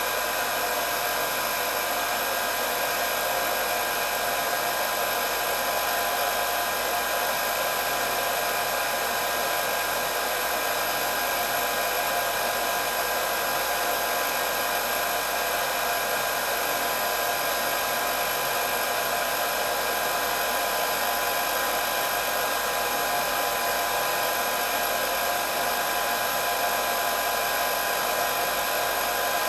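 Electric hair dryer running steadily: a constant whoosh of blown air with a steady high motor whine.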